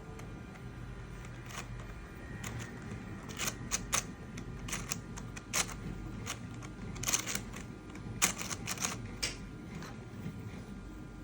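Irregular clicks and taps of hard 3D-printed PLA plastic parts being handled and fitted together, coming in clusters through the middle of the stretch over a steady low hum.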